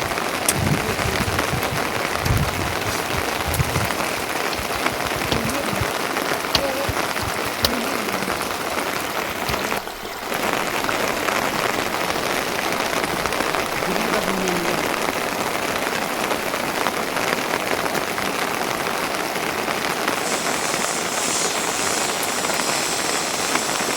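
Steady rain falling, with a brief dip about ten seconds in.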